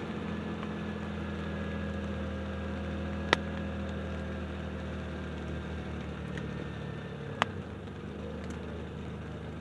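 A steady low mechanical hum, with two short sharp clicks, about three and seven seconds in.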